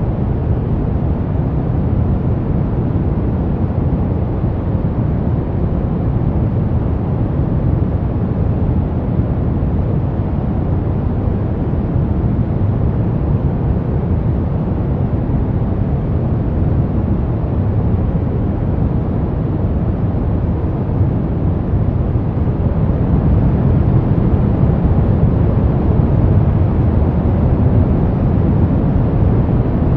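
Synthetic brown noise: a steady, deep rumbling hiss, strongest in the low end and thinning out toward the top, growing a little louder near the end.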